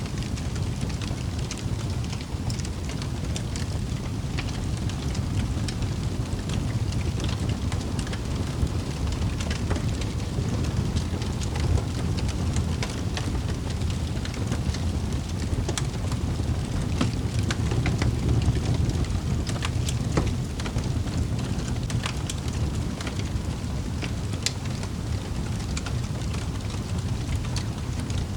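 Wood fire burning in a fireplace: a steady low rumble of flames with many small sharp crackles and pops scattered irregularly throughout.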